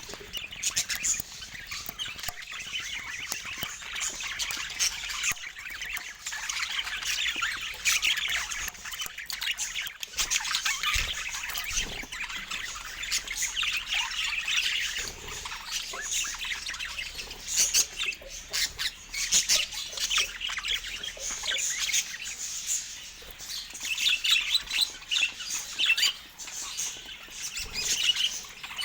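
Pet budgerigars chirping and chattering without a break, high-pitched, with many short clicks mixed in.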